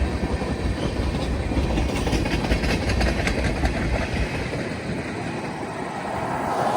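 Train passing, its wheels clacking over rail joints, with a low rumble that drops away about four seconds in.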